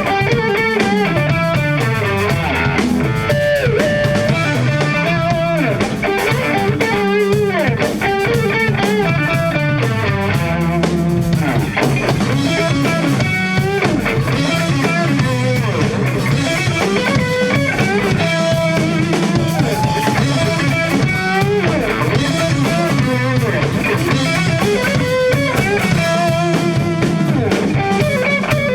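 Rock band playing an instrumental passage: electric guitar lines with bends and slides over bass and a drum kit.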